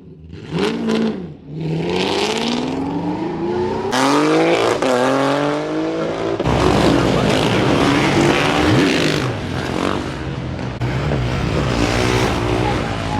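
Car engines revving and accelerating: a short blip that rises and falls about half a second in, then long pulls that climb in pitch, with engine sound going on after them.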